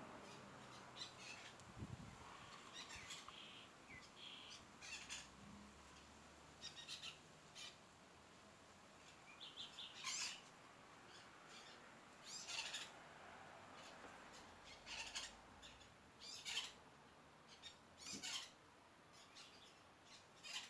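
Faint bird calls: short chirps and squawks repeating at irregular intervals, a few louder ones in the second half.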